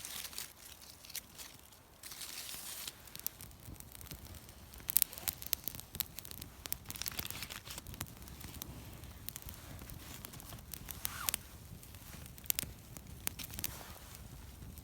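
Small campfire of newspaper and damp twigs being lit, with scattered sharp crackles and pops. There is a short burst of paper rustling about two seconds in.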